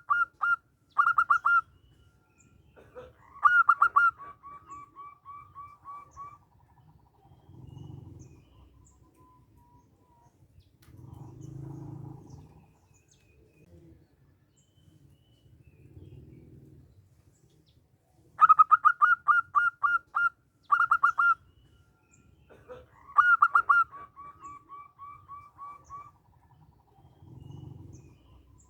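Zebra dove song: bursts of quick, staccato cooing notes, each phrase trailing off in a faster run of softer notes. The song comes in two pairs of phrases, with low, soft, muffled sounds in the gaps between them.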